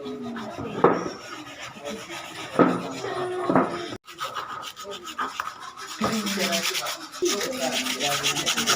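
Wood being worked by hand with an abrasive: rubbing strokes, a few knocks in the first half, then fast, even back-and-forth strokes from about six seconds in.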